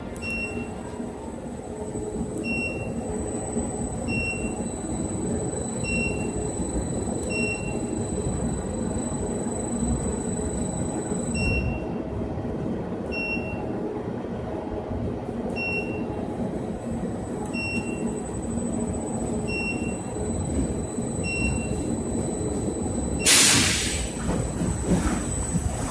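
Industrial washing machine running with a steady, rumbling churn, over which short high-pitched beeps repeat every second or two. A short, loud hiss cuts in near the end.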